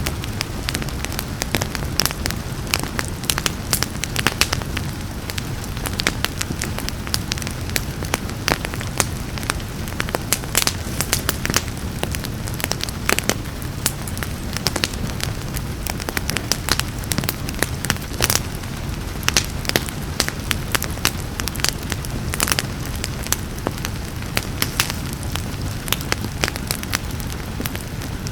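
Wood fire crackling in a fireplace, with frequent irregular sharp pops and snaps over a steady low rumble, mixed with a background hiss of rain.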